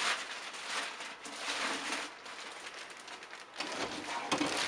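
Heavy cardboard packaging being handled: scraping and rustling in several uneven bursts, with a couple of knocks near the end.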